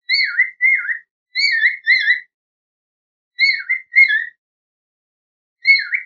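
A bird's whistled calls: short clear notes in pairs, each dipping and rising again in pitch. Three pairs come with pauses between them, and a single note follows near the end.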